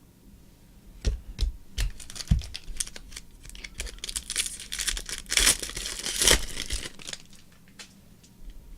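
Trading card pack wrapper being torn open and crinkled, with a few sharp clicks in the first couple of seconds and the tearing and rustling at its loudest in the middle.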